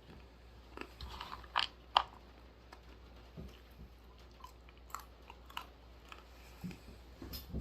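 Dry-roasted almonds being bitten and chewed close to the microphone. A cluster of sharp crunches comes about one to two seconds in, the loudest near two seconds, followed by quieter, scattered crunches of chewing and a few more near the end.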